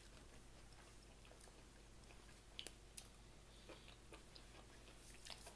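Faint chewing of food, close to the microphone, with a few soft mouth clicks over a low steady hum.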